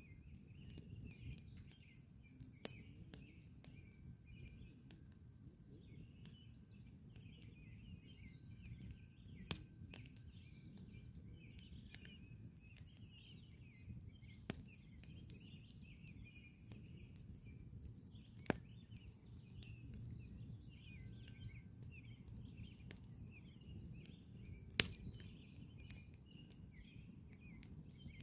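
Campfire crackling, with a few sharp pops from the burning wood, the loudest about 25 seconds in, over a low steady rumble. Small birds chirp and twitter continuously in the background.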